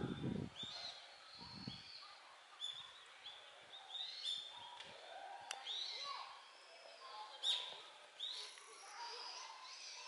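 Small birds chirping, short high calls repeating every second or so, with a brief low rumble in the first two seconds.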